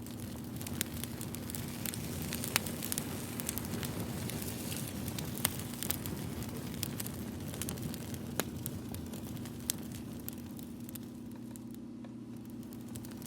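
Wood fire crackling, with irregular sharp pops every second or two over a low steady hum.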